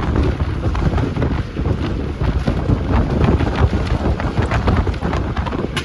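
A bus in motion: engine and road rumble with irregular rattles and knocks, and wind buffeting the microphone.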